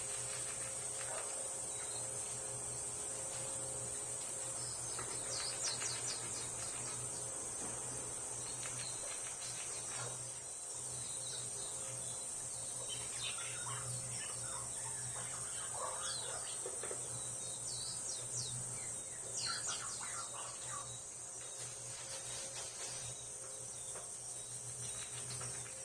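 Small birds chirping in short falling calls over a steady, high-pitched insect drone, with faint crunching from a Japanese squirrel gnawing its food.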